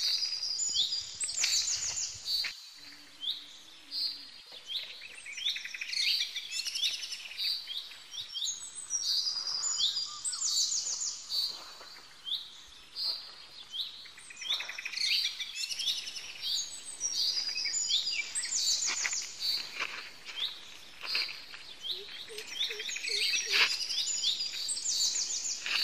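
Birds chirping, with high-pitched calls repeating in quick series over and over.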